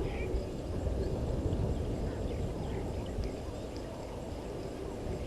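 Outdoor waterhole ambience: scattered short bird calls over a steady low rumble.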